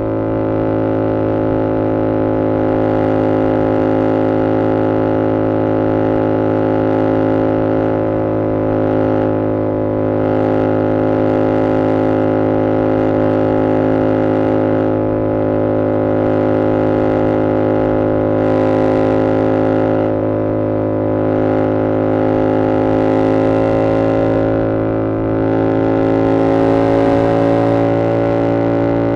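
2022 Yamaha R7's 689 cc parallel-twin engine through an SC-Project CR-T exhaust, running at a steady, nearly constant pitch while cruising. The note swells slightly louder about 26 seconds in.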